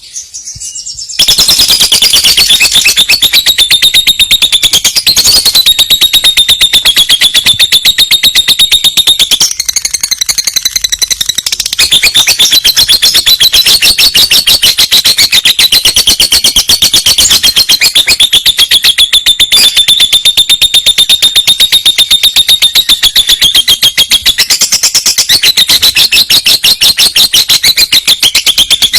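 Lovebird singing a long roll: a rapid chatter of high notes held for nearly half a minute, with a brief dip about ten seconds in.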